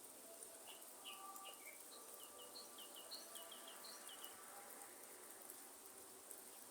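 Faint rainforest ambience: a light rain hiss under a bird chirping a quick series of short notes through the first four seconds, with a steady high insect drone.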